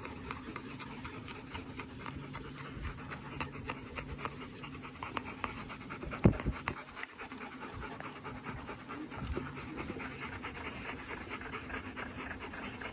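A dog panting rapidly and steadily, with one brief louder sound about six seconds in.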